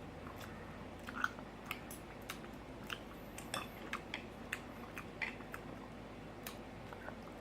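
A person chewing food close to the microphone: soft, irregular wet clicks and smacks, one or two a second.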